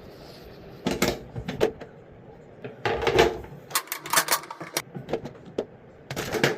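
Irregular clicks, knocks and short clattering bursts of small hard objects being handled and set down.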